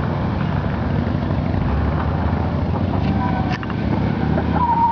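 1984 Dodge Ram pickup's engine running hard as the truck spins a donut through flood water.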